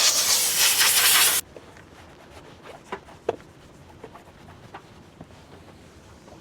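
Detailing steam cleaner hissing, cutting off suddenly about a second and a half in; after that, faint rubbing and a few small clicks.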